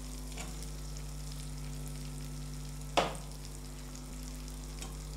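Masala sizzling gently in oil as fried potato cubes are added, with one sharp clack about three seconds in, over a steady low hum.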